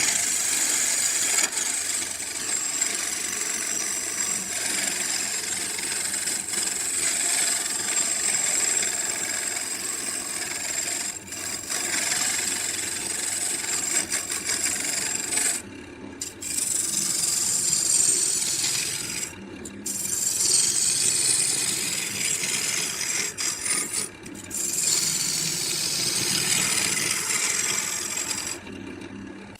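Wood being worked with a rasping or abrading tool: a steady scraping noise that stops briefly three times and again just before the end.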